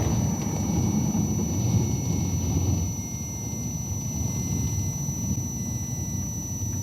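Cessna 152 cabin noise: the four-cylinder Lycoming O-235 engine and airflow as a steady low rumble, which eases somewhat about three seconds in.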